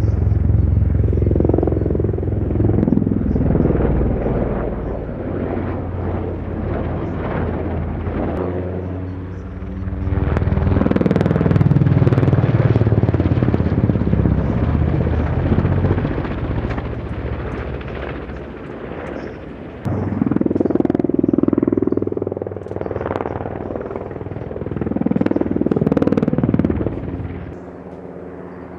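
Helicopter flying past, its rotor beat and turbine whine growing louder and fading away several times as it manoeuvres.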